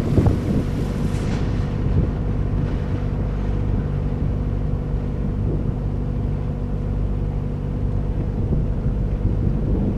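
A sailboat's engine running steadily as it motors along, a constant hum. Some wind on the microphone in the first second or so.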